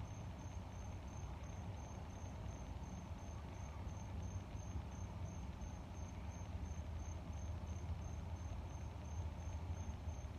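A cricket chirping steadily, about two or three short high chirps a second, over a steady low rumble of moving air.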